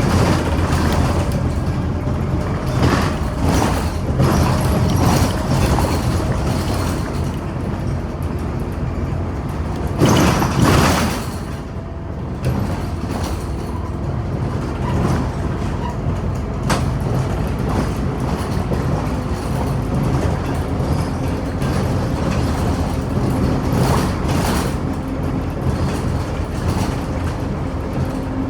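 Scania Omnicity city bus heard from inside while under way: engine running with a steady low hum and rumbling road noise, with a short loud rush of noise about ten seconds in.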